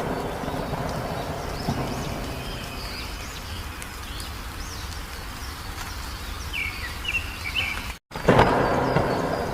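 Wild birds chirping and calling, scattered short notes over a steady outdoor background noise, with a quick series of chirps about seven seconds in. The sound drops out for an instant about eight seconds in and returns with a louder rushing swell.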